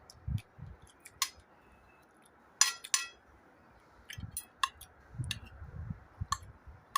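Cutlery and dishes clinking and tapping in scattered sharp strikes with a few soft low knocks; the loudest is a pair of ringing clinks about two and a half to three seconds in.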